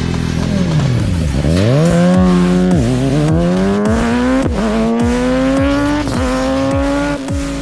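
A high-revving engine accelerating up through the gears: its pitch climbs, then drops sharply at each of about four upshifts.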